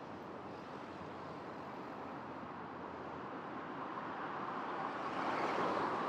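A road vehicle approaching and passing on the street, its tyre and engine noise growing steadily louder to a peak about five and a half seconds in.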